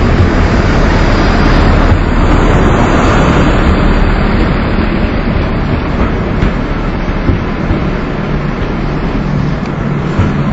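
Passenger train coaches rolling past close by, a steady loud rumble and rush of steel wheels on the rails that eases off slightly toward the end.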